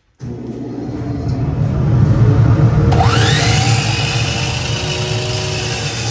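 Bandsaw running with a steady motor hum that starts suddenly and builds over the first two seconds; about halfway in, a rising whine sweeps upward over it.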